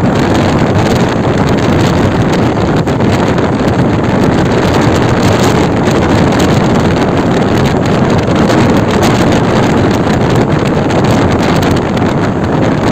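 Wind rushing hard over the microphone, mixed with the running noise of a moving train. It is a loud, steady rush with no pauses.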